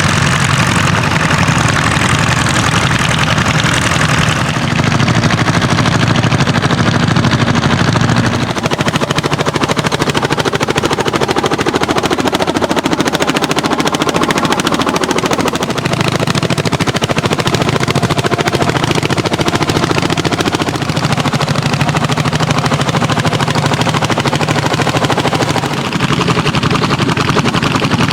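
Old tractor engines working hard under plowing load, a rapid, even chugging. The engine note changes several times, at about 4, 8, 16 and 26 seconds in.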